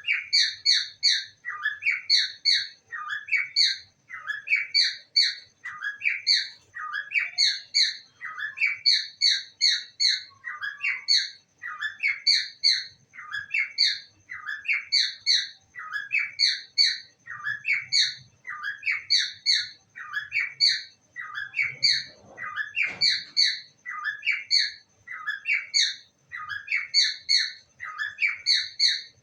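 Pet parrot chirping in short quick bursts of three or four falling notes, repeated about once a second over and over, with a faint steady high whine underneath.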